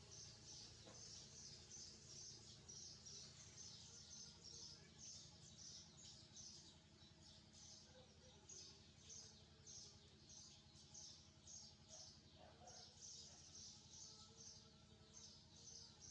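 Faint, high-pitched bird chirps repeating quickly and steadily, about two to three a second, over a low steady hum.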